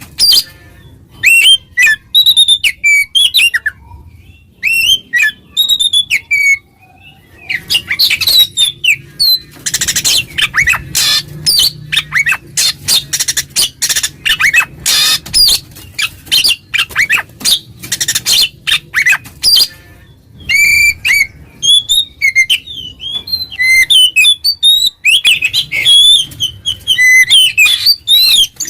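Oriental magpie-robin (kacer) singing loud 'ngeplong' song, a rival-challenging call. Short whistled phrases open the song. From about eight to nineteen seconds in comes a long run of harsh, scratchy chattering notes, and then the whistled phrases return.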